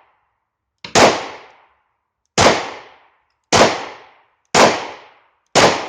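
Five 9mm shots from a German P.08 Luger pistol fired one-handed, about one to one and a half seconds apart, each a sharp crack with a short echoing tail.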